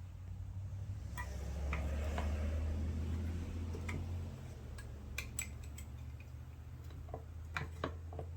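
Metal parts and hand tools clicking and clinking in handling during transmission reassembly, with a few sharp taps in the second half, over a steady low hum.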